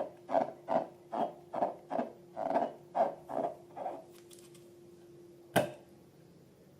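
Slime being squished by hand in a run of short, soft squelches, about two and a half a second, which stop about four seconds in. A single sharp click follows near the end.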